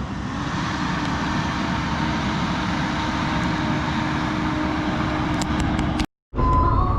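Diesel construction machinery running steadily with a low, even hum. Near the end the sound drops out for a moment and comes back louder, now with a steady high whine.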